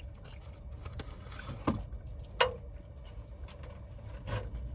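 Low steady rumble of a car cabin, with two sharp clicks and light handling noises of takeout food containers in between.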